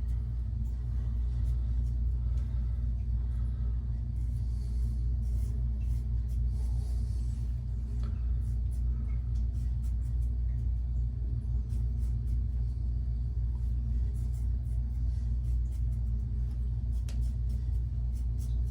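A steady low rumble throughout, with faint, short scraping strokes of an injector-blade razor cutting stubble scattered over it.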